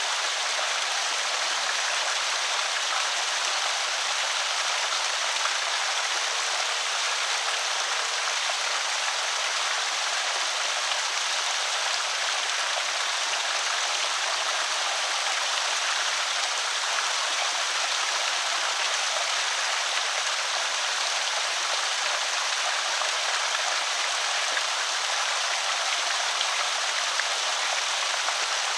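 Creek water pouring over a small spillway: a steady, even rush of splashing water.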